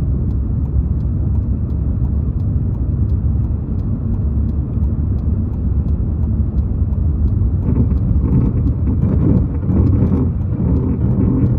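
A car driving on a snowy road, with a steady low rumble from its engine and tyres. About three-quarters of the way through, a rougher, noisier sound joins in.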